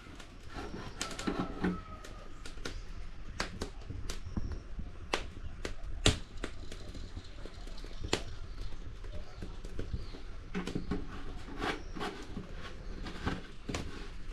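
Irregular sharp clicks and knocks of hand work with kitchen utensils, the loudest knock about six seconds in, with faint bird chirps.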